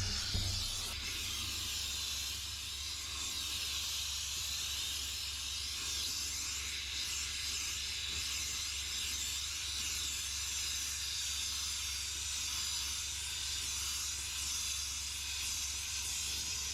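Steam cleaner jetting steam through its narrow nozzle: a steady hiss with a low hum underneath. There are a couple of brief knocks right at the start.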